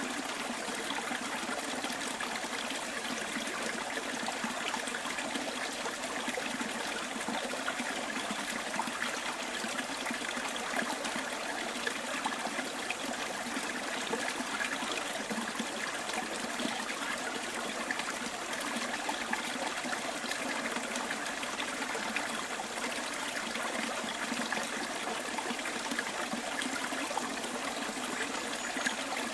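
Small stream flowing and trickling over stones, with a steady babble and faint splashes throughout.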